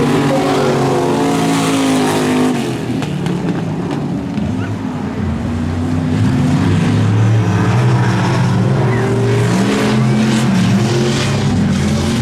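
Monster truck engine revving hard, its pitch rising and falling, easing off for a couple of seconds near the start before opening up again.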